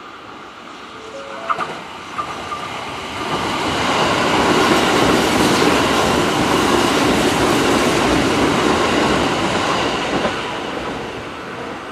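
Kintetsu commuter electric train passing: the rumble of its wheels on the rails builds up, holds loud for several seconds and fades away, with a few sharp clicks about a second and a half in.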